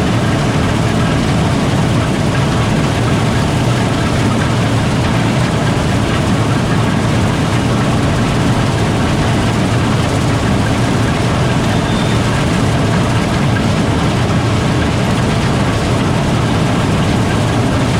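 Gleaner R72 combine running steadily under way: a constant, loud low drone of the diesel engine and threshing machinery.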